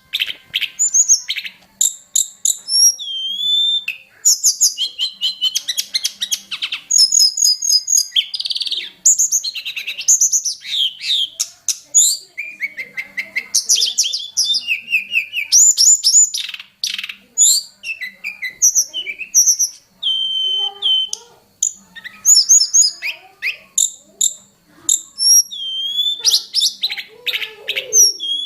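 Tledekan gunung songbird singing a long, varied song of quick whistled slurs, rapid trills and chattering phrases, with hardly a pause.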